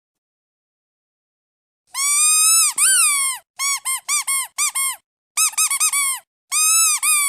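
Squeaky duck toy being squeezed: about two seconds in, a long squeak, then a quick run of short squeaks, a rapid cluster, and another long squeak near the end.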